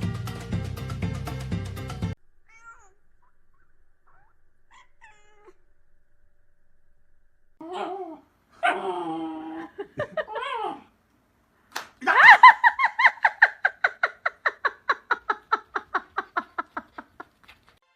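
Background music that stops about two seconds in, then a cat meowing twice and giving a few quick short chirps. About twelve seconds in the cat starts a long run of rapid short repeated calls, about six a second, that fade over some five seconds.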